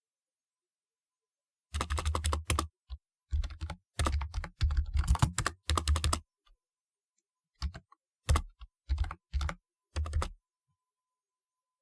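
Typing on a typewriter-style keyboard: quick runs of sharp keystrokes in several bursts with short pauses between them, starting nearly two seconds in and stopping a little before the end.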